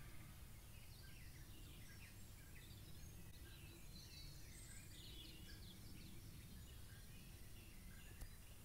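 Faint birds chirping over a low, steady background rumble, with a single sharp click near the end.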